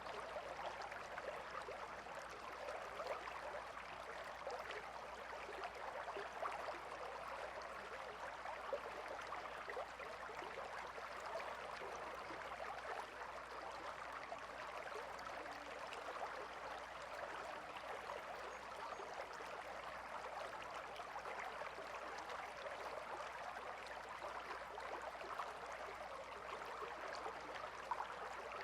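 Shallow river flowing steadily, a continuous hiss of moving water with small splashes and gurgles and no break.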